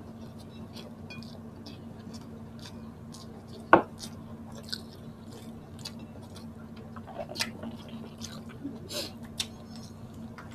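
Close-miked chewing and mouth smacking from people eating by hand, with many small irregular wet clicks and one sharp, louder click about four seconds in, over a faint steady hum.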